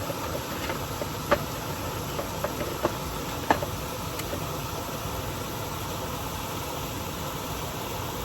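Steady rushing background noise, with a few short sharp clicks in the first few seconds.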